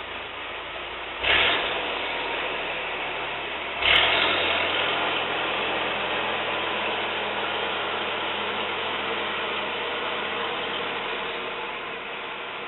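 A machine running steadily with a mechanical clatter and low hum, jumping louder suddenly about a second in and again around four seconds in.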